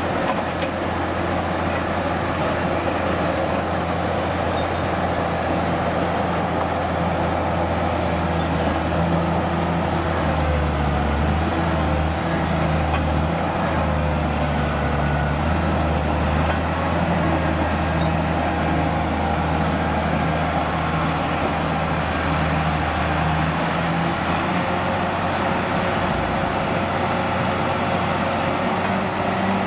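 Engine of a heavy vintage truck or construction machine running steadily at an even, low pitch.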